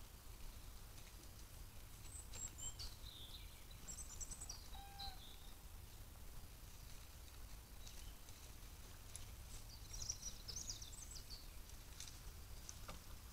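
Faint songbird chirps in two short bouts, about two seconds in and again about ten seconds in, over a steady low background rumble.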